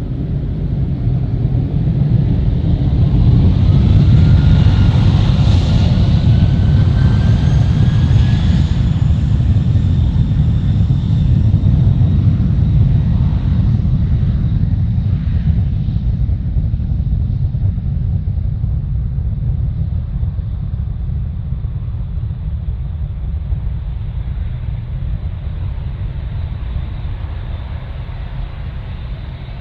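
A twin-engine widebody jet airliner at takeoff power passes close. Its engines give a deep rumble with a whine that drops in pitch as it goes by. The sound peaks a few seconds in, then the rumble slowly fades as the jet climbs away.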